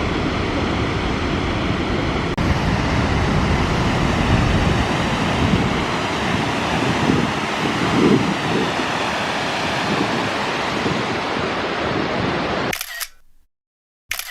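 Goðafoss waterfall rushing as a steady, loud roar of falling water, with wind buffeting the microphone. The sound cuts off suddenly near the end, followed by one brief burst.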